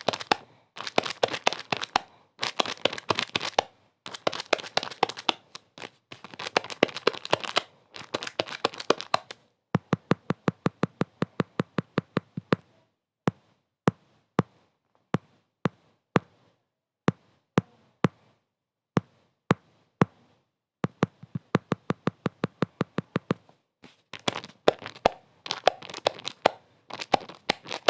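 Crackling and clicking: dense bursts of crackle, then about a third of the way in a fast run of even clicks, about eight a second, giving way to single sharp clicks roughly a second apart, before dense crackling returns near the end.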